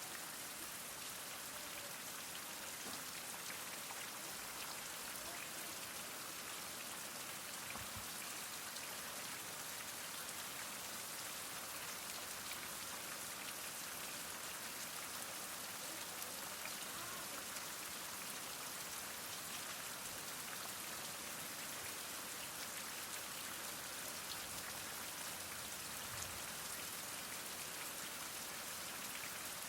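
Heavy rain falling steadily, an even hiss of many drops with fine pattering.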